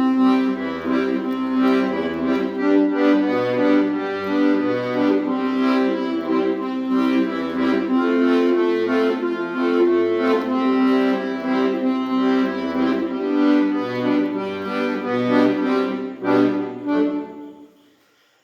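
Accordion playing a tune over a line of low alternating bass notes; it stops near the end.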